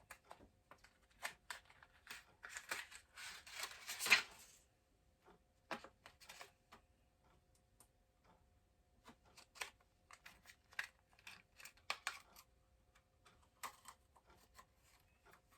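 Handling noise from a penlight glowstick: scattered small plastic clicks and taps, with a denser scraping, rustling stretch from about two to four and a half seconds in.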